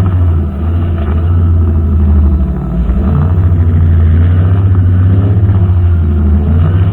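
Brushcutter engine running steadily with a low, even drone, dipping briefly twice, about half a second in and again near three seconds in.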